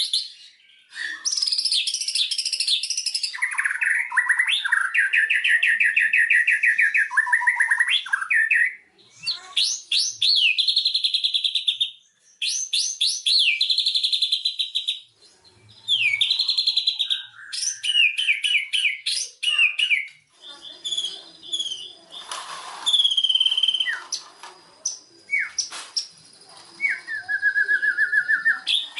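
White-rumped shama singing a loud, varied song: fast runs of repeated notes, whistled phrases and trills, broken by short pauses.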